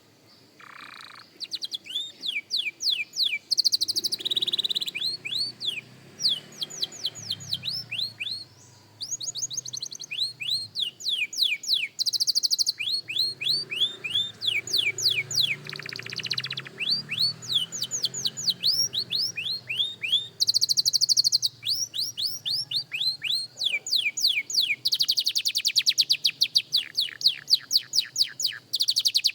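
Young canary singing practice song: runs of quick, repeated falling notes, broken by several short, fast buzzy rolls, starting about a second and a half in.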